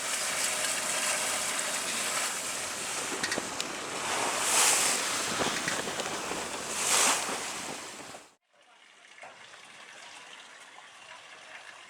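Sea water rushing and splashing along a sailing yacht's hull in a swell, with two louder surges about four and a half and seven seconds in. About eight seconds in it cuts off suddenly to a much quieter, steady background.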